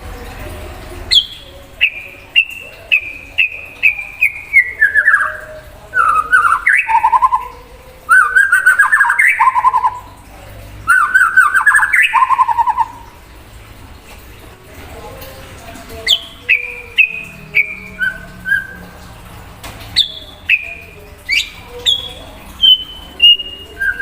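White-rumped shama (murai batu) singing. It gives a run of short clear whistled notes stepping down in pitch, then fast trilled, rattling phrases. After a few seconds' pause it sings more short whistled notes with downward slurs.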